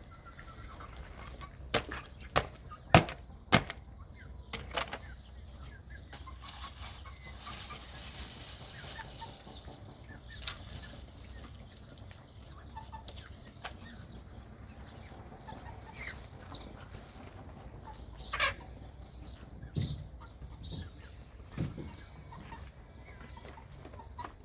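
Chickens clucking, with a few sharp knocks about two to four seconds in.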